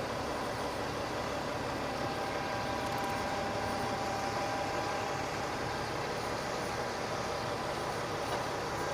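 Refuse truck's diesel engine idling steadily, a low rumble with a steady whine above it.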